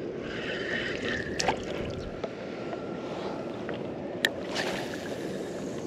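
Water lapping and sloshing against a kayak hull in stout wind, a steady rushing wash, with a few sharp clicks or knocks about a second and a half in and again past four seconds.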